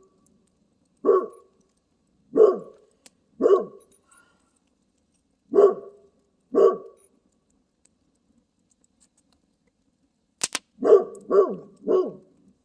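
Dog barking: single barks a second or two apart, then a sharp click followed by a quick run of three barks near the end.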